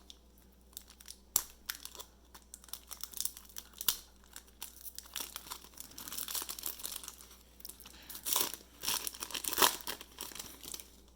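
A Panini Brilliance basketball card pack being torn open by hand, its wrapper crinkling in scattered crackles, with louder stretches of crinkling late on.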